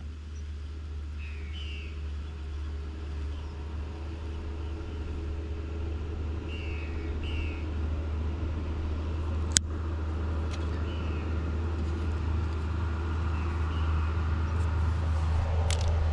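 Steady low rumble of a motor vehicle, growing louder, with a few faint high chirps and one sharp click about halfway through.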